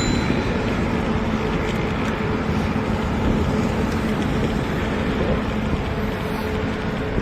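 Steady rush of wind on the microphone mixed with road and traffic noise during a bicycle ride, with a faint low hum.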